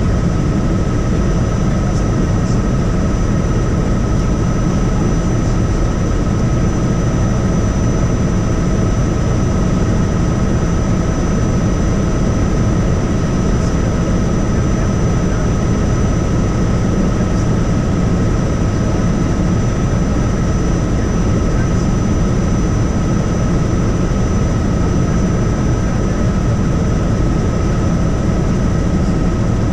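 Helicopter in flight: a steady, loud rumble of rotor and engine with a steady high whine over it.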